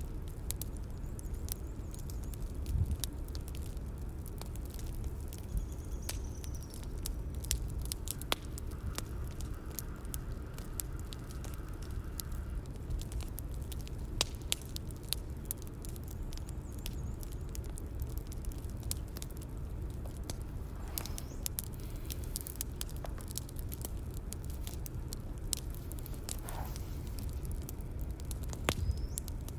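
Bonfire ambience: a wood fire crackling with irregular sharp snaps over a steady low rumble of flames.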